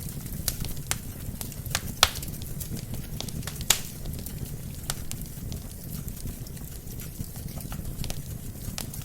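Wood fire burning in a fireplace: a steady low rumble of flames with irregular sharp crackles and pops from the burning logs, two louder pops about two seconds in and near the middle.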